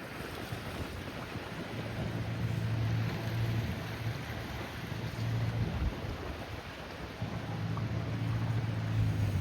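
Small boat motor humming low on the water, coming and going in level, under a steady rush of wind and water noise.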